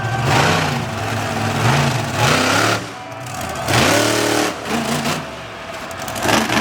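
Monster truck engine revving in repeated bursts, its pitch climbing and falling several times, with the sharpest climb about four seconds in.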